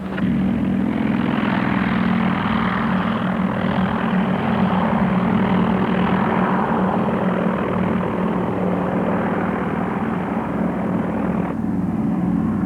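Grumman S-2 Tracker, a twin piston-engine propeller patrol plane, flying by with a loud, steady engine drone and rushing propeller noise. The higher rushing part drops off about a second before the end while the drone goes on.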